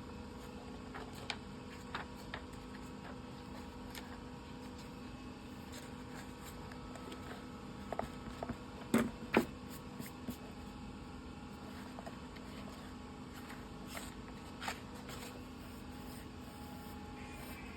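Scattered light taps and clicks over a steady low room hum, with a pair of louder knocks about nine seconds in.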